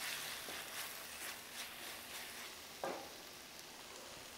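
Chopped tomatoes and onions sizzling in hot oil in a metal pan while a wooden spatula stirs them, with light scrapes over the first couple of seconds and one sharper knock against the pan about three seconds in. The sizzle then carries on more quietly.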